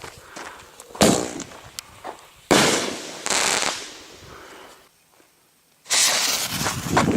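Consumer fireworks going off: a bang about a second in, a louder bang at two and a half seconds with another burst close behind, then after a brief silence a dense rapid crackling from about six seconds.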